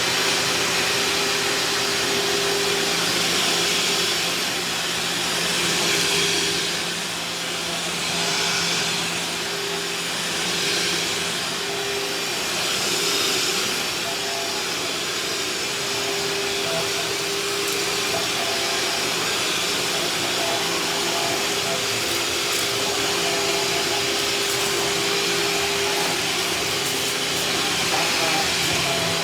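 Vacuum cleaner running steadily at full power with a constant motor hum and suction hiss. Its sound rises and falls slightly at times as it is worked over the kitchen floor.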